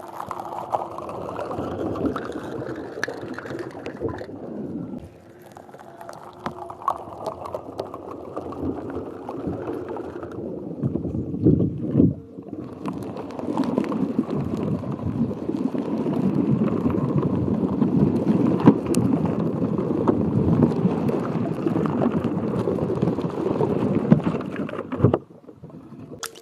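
Water sloshing and gurgling in stretches, with a short break about ten seconds in and the longest, loudest stretch from about thirteen seconds to near the end.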